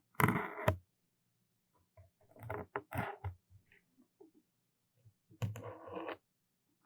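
Close-miked ASMR trigger sounds: three short bursts of clicking and rustling against the microphone, the first the loudest.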